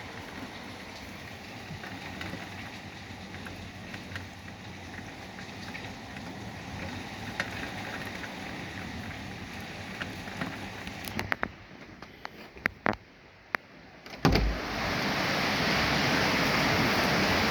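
Thunderstorm rain and wind as a steady rushing noise. It goes quieter with a few sharp knocks, then about 14 seconds in a much louder rush of wind-driven rain breaks in suddenly.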